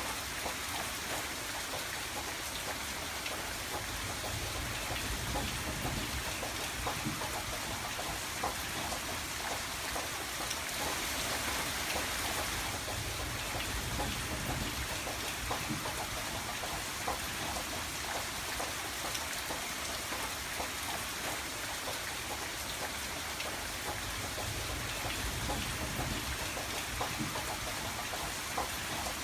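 Steady rain on a window pane: an even hiss dotted with many small drop ticks, with a low rumble that swells and fades a few times.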